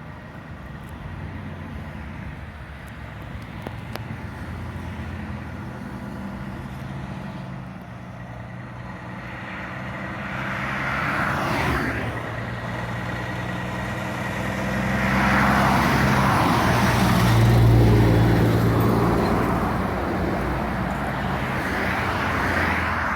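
Heavy diesel trucks driving past on a road. A steady low engine drone runs throughout, and tyre and engine noise swells as a truck passes about ten seconds in, then louder again from about fifteen seconds.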